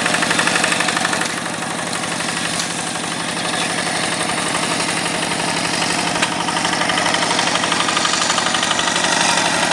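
Yanmar single-cylinder diesel engine of a paddy-field hand tractor running steadily with fast, even firing beats. It eases off slightly about a second in and builds back up toward the end.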